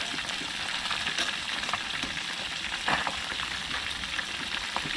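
Food frying in hot oil in a pan over a high flame: a steady sizzle with a few short pops.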